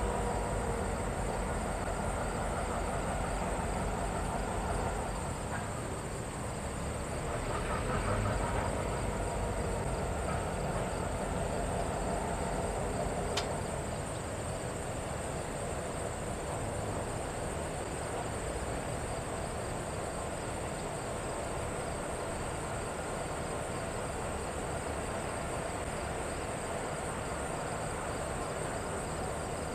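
Diesel freight train moving on the track, louder for the first half and fading out about 13 seconds in, with a single sharp click about then. Insects chirring steadily and high-pitched throughout.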